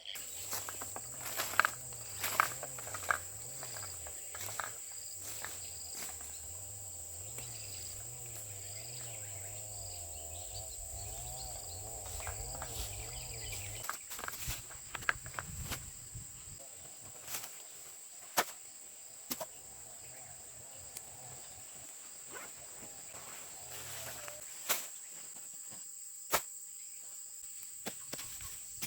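Steady, high-pitched drone of insects such as crickets, with scattered clicks and rustles of footsteps through vegetation. A low wavering hum runs underneath for about the first half.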